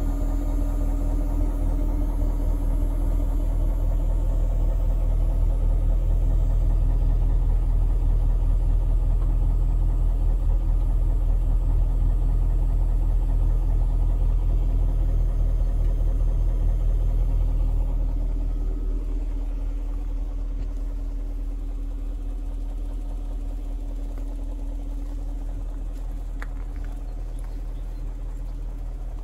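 BMW 740i's 4.4-litre V8 idling steadily while it warms up after a cold start. It grows gradually quieter about two-thirds of the way through.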